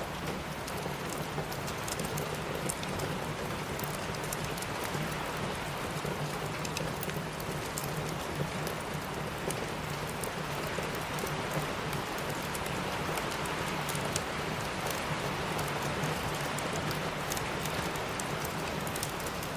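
Steady rainfall hissing, mixed with frequent small sharp crackles and pops of a burning wood fire.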